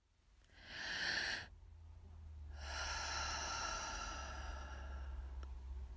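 A person breathing close to the microphone: a short breath about half a second in, then a longer, slower breath that fades away, with a low rumble underneath.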